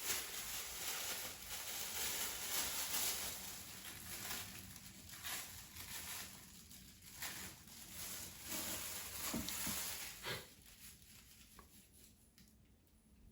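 Seasonings being shaken from their containers onto a raw chicken cutlet: quiet, repeated rasping shakes and the grains falling on the meat, dying away about ten seconds in.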